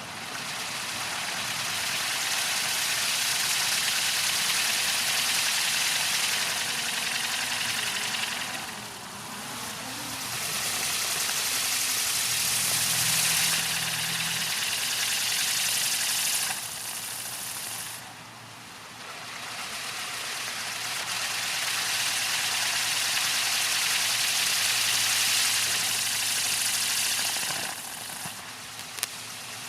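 Consumer firework fountains spraying sparks with a steady, loud hiss. The hiss comes in three long runs of several seconds each, with short lulls about 9 and 18 seconds in and near the end.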